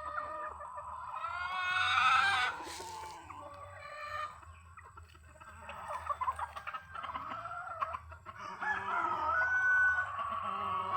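Chickens clucking, with a rooster crowing; the loudest call comes about two seconds in.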